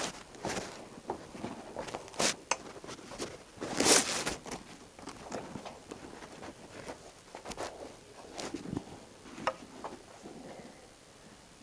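Irregular rustling with light clicks and knocks, from someone moving about and handling things, with a louder rustle about four seconds in; it thins out near the end.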